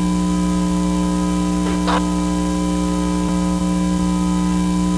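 Loud, steady electrical-style hum made of several fixed tones, with one brief short sound about two seconds in.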